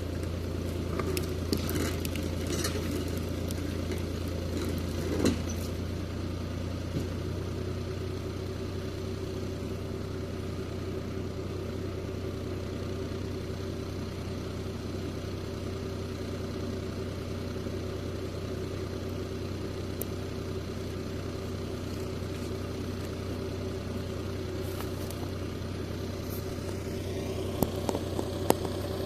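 Steyr 540 tractor engine running steadily, with a few sharp knocks in the first few seconds and again near the end.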